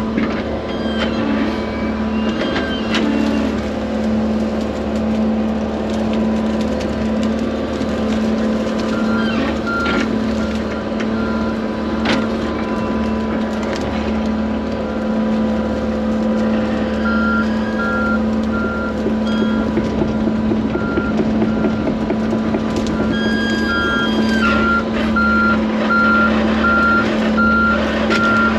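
Diesel engine of heavy equipment running steadily while a backup alarm beeps in short repeated pulses, starting about a third of the way in and beeping steadily over the last third. A few sharp knocks of brush being loaded onto the truck are heard along the way.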